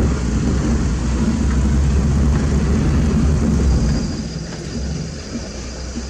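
Heavy diesel engine of a construction vehicle running with a deep low rumble, easing off about four seconds in.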